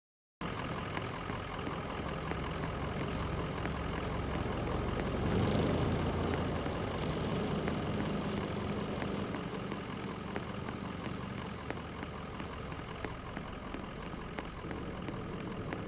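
Steady low mechanical hum, with faint regular ticks about every 0.7 seconds.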